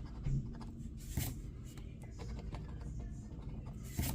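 A scratch-off lottery ticket being scratched in short, irregular strokes, with louder scrapes about a second in and near the end.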